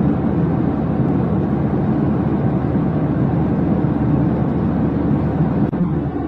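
A steady, low rumbling noise with no distinct tones, dropping out for an instant about five and a half seconds in.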